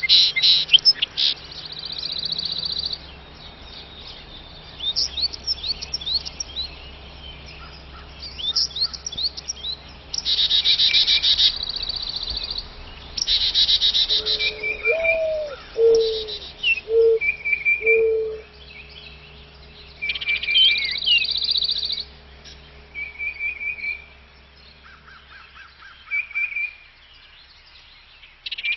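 Several small birds chirping and trilling in short bursts, with a few low, drawn-out notes about halfway through.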